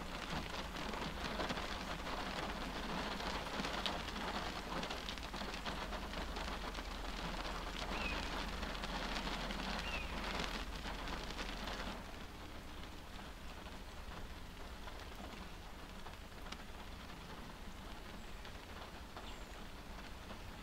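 Rain pattering on a car's windshield, heard from inside the stopped car, with a steady low hum underneath. The rain is heavier at first and eases off a little over halfway through.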